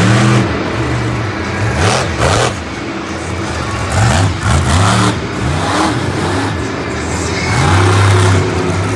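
Monster truck's supercharged V8 revving hard again and again, its pitch repeatedly climbing and dropping, with several short loud noisy surges over it.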